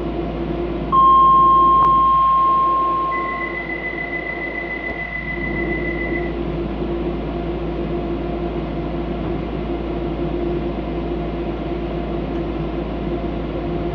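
Two long electronic warning tones on a stationary Docklands Light Railway train. A loud tone starts about a second in, and a higher one begins as it ends and holds for about three seconds. Under both runs the train's steady equipment hum.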